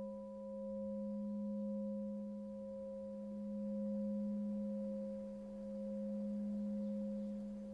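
Sustained pure-tone drone: a steady low hum with fainter, higher steady tones above it, swelling and easing gently every couple of seconds.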